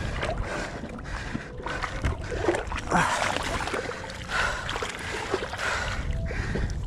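Irregular water splashing and sloshing in shallow river water as a large fish is handled and eased back in, over a low wind rumble on the microphone.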